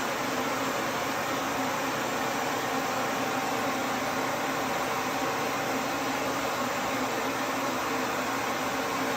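Duz V3 pet dryer blowing steadily: an even rush of air with a constant motor hum.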